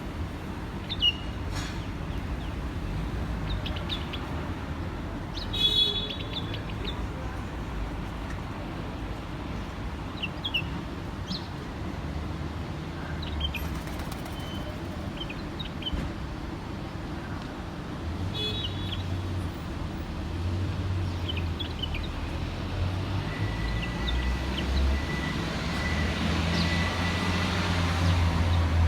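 Small songbird giving short, scattered chirps over a steady low rumble of road traffic that grows louder near the end.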